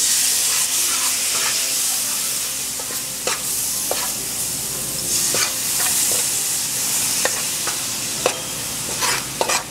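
Curry powder mixture with onions sizzling in hot oil in a metal pot, a loud steady hiss as a little water has just gone in. A metal spoon stirs and scrapes through it, with a few sharp clinks against the pot.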